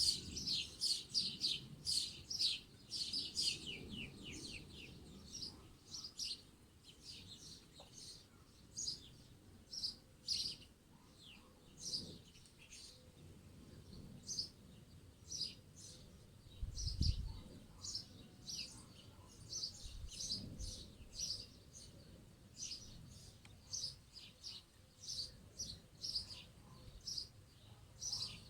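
Small birds chirping and twittering all through, with a quick run of falling notes in the first few seconds. Two low thumps sound past the middle.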